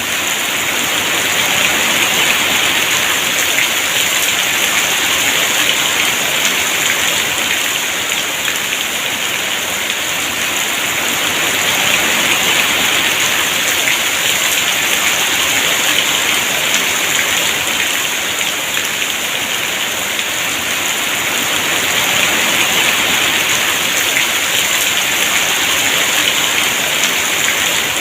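Heavy rain falling steadily, a dense, even hiss of downpour that swells and eases gently every ten seconds or so.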